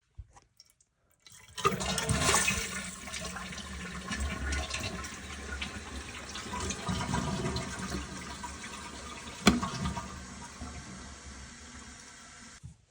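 Toilet flushing: water rushes in suddenly, then runs on steadily as the tank refills through a newly fitted fill valve, with a single sharp click partway through. It cuts off abruptly near the end.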